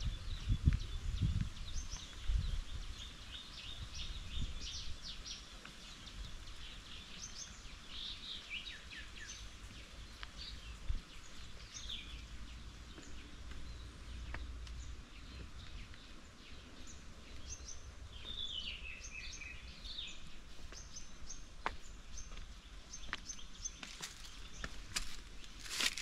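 Small birds chirping and calling throughout, in many short high notes, with one call sliding down in pitch about two-thirds through, over a steady outdoor background hiss. A few low thumps in the first couple of seconds and sharp clicks near the end.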